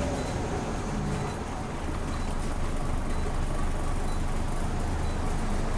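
Scania N94UB Omnicity single-decker bus on the move, heard from inside the cabin: a steady engine drone with road noise.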